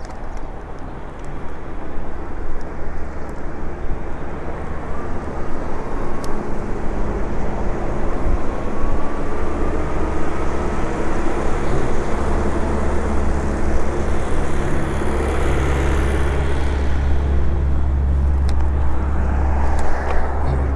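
Wind buffeting the microphone and tyre noise while riding an electric bike, growing louder in the second half as the bike picks up speed.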